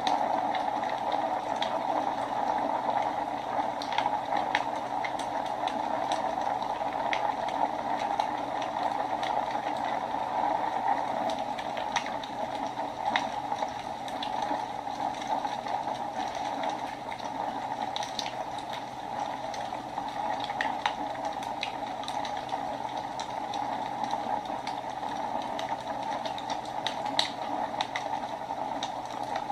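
Wood fire burning in a fireplace: a steady hiss and rush of flames with irregular sharp crackles and pops.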